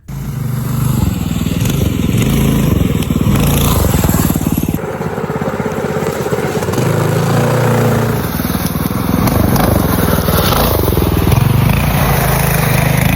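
Minibike's Predator 224 single-cylinder four-stroke engine running under load on a rough trail, its speed rising and falling.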